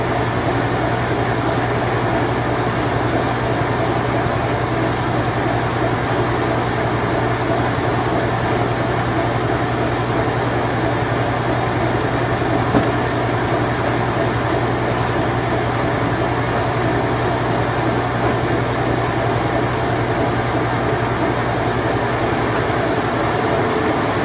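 Late-1980s Whirlpool Imperial Clean Touch top-load washing machine in its spin cycle, running with a steady low hum under an even mechanical whir. There is one brief click about halfway through.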